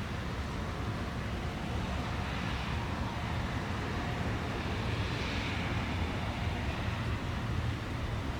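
Train running at a distance: a steady low rumble with a slight swell about halfway through.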